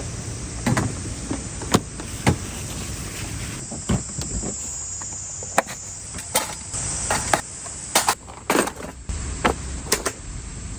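Irregular knocks and clicks of something being handled, with a thin steady insect buzz, high in pitch, in the middle of the stretch.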